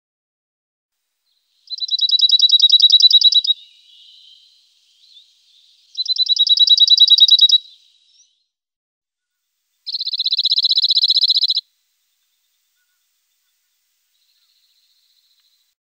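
A bird giving three high, rapid trills, each about two seconds long, a few seconds apart.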